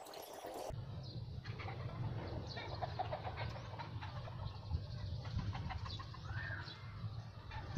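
Faint, scattered bird calls over a low, steady rumble.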